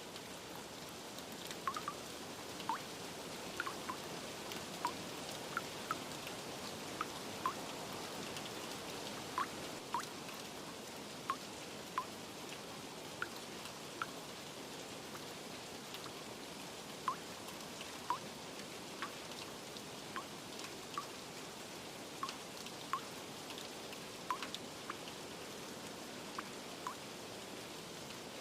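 Steady rain hiss with irregular single drops plinking, a few each few seconds.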